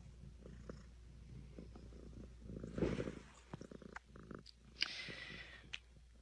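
A pet animal's low, rumbling, purr-like grumble in quick pulses, loudest a little under three seconds in, with a short hiss-like noise about five seconds in.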